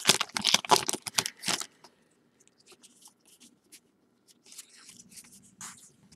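Wrapper of a Topps Valor football card pack crinkling and tearing open for about the first second and a half, then faint rustles of the cards being slid out and handled.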